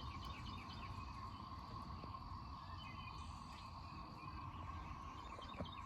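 Faint, steady drone of a distant chorus of emerging periodical cicadas, a low, tunnel-like hum held on one pitch, with birds chirping now and then.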